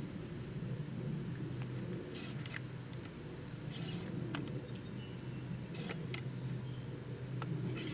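Light clicks and a few short scrapes of hands working loading gear while a bullet is being seated in a .45 caliber muzzleloader, over a steady low engine-like hum.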